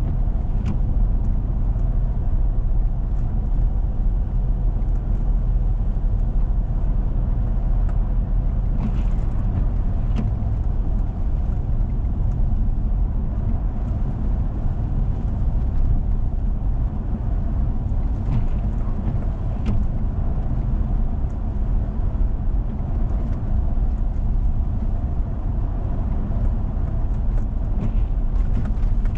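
Vehicle driving on a snowy road: a steady low rumble of engine and tyres, with a few faint clicks now and then.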